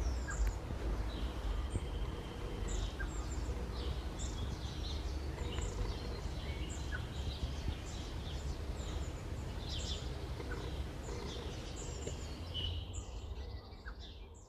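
Small birds chirping, many short high calls one after another over a low steady rumble; the sound fades out near the end.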